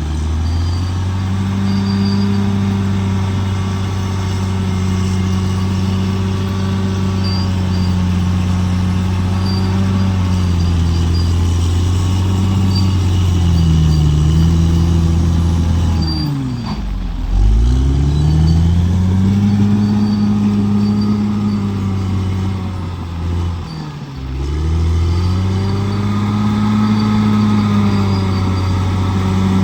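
Bulldozer's diesel engine running at high revs, the revs dipping and climbing back a few times, most deeply about halfway through.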